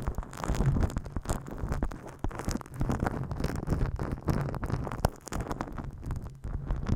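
Close-miked ASMR ear massage: hands rubbing and scratching over the microphone, giving a continuous, irregular muffled rustling with a low rumble and small crackles.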